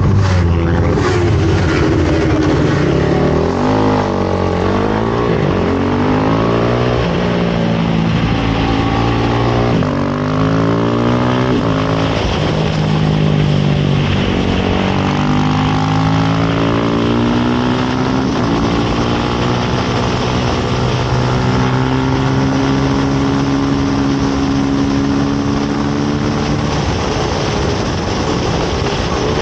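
Race motorcycle engine pulling away from a standstill and accelerating hard, its pitch climbing and dropping back with each upshift. Near the end the revs fall as the bike slows for a corner.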